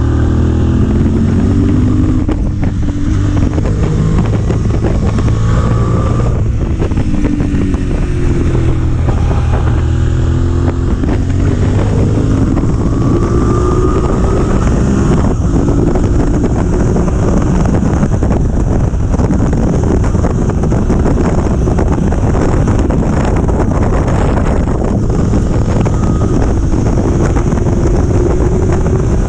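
Motorcycle engine under hard riding, its pitch rising and dropping again and again through the first half with gear changes. It then settles to a steadier run, with heavy wind rushing over the microphone throughout.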